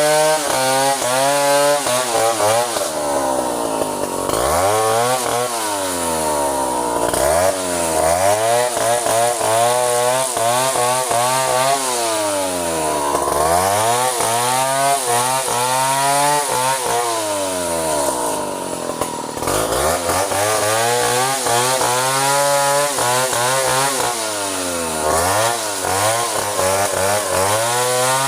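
Chainsaw running continuously while cutting bintangor wood, its engine pitch dropping and climbing back again several times as the revs rise and fall.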